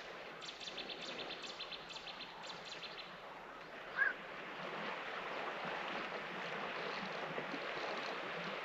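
A bird sings a quick run of repeated high notes over the first three seconds and gives a single short chirp about four seconds in. Under it, and filling the rest, is a steady rush of wind and water that grows slightly louder.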